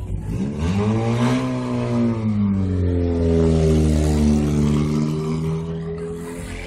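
Race car's engine revving up as it pulls away, its pitch climbing for about a second and then easing off to a steady, slowly falling note. It grows loudest midway as the car drives past close by, then fades a little near the end.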